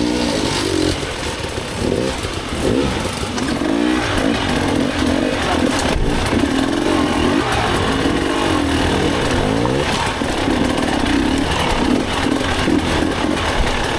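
Dirt bike engine revving up and down in short, uneven bursts of throttle, the pitch rising and falling again and again.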